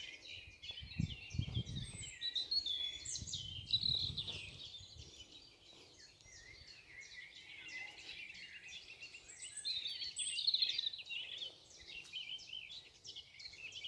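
Chorus of several songbirds singing at once, overlapping chirps and warbling songs without a break. A few low rumbles come in the first five seconds.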